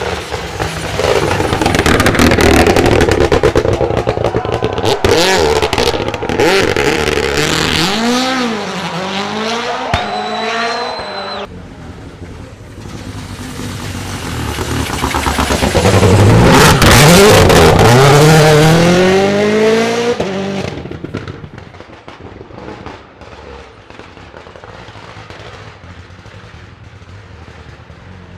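World Rally Championship Rally1 car's turbocharged engine revving hard through gear changes as the car drives by at speed, twice. The second pass is the loudest, with the pitch dropping as it goes past. Afterwards only a quieter, steady engine and outdoor sound remains.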